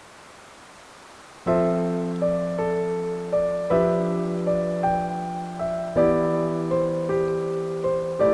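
Background piano music: slow, gentle notes begin about a second and a half in, after a faint hiss.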